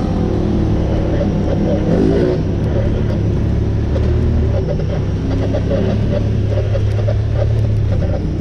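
Honda Pioneer 1000 side-by-side's engine running steadily as it drives along a trail.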